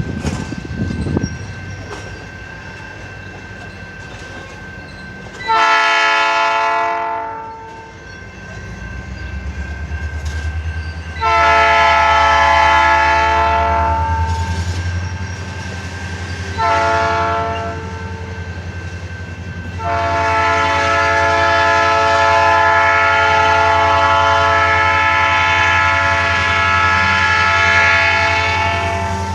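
Freight train locomotive's air horn blowing the grade-crossing signal: long, long, short, then a final long blast held about nine seconds. Underneath, the low rumble of the diesel locomotive and its wheels on the rails grows as the train comes closer.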